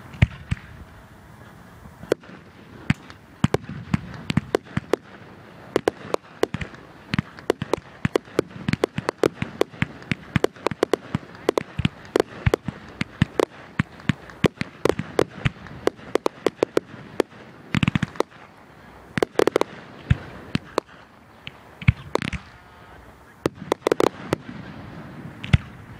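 Fireworks going off in a rapid, irregular string of sharp pops and bangs, several a second, with thicker clusters of bangs in the last third.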